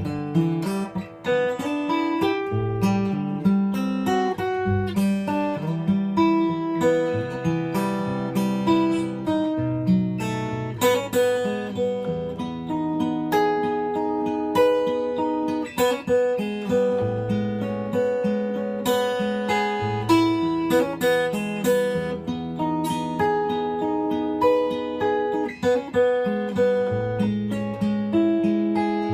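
Solo acoustic guitar playing a melody over a bass line and chords, the notes plucked with occasional strums.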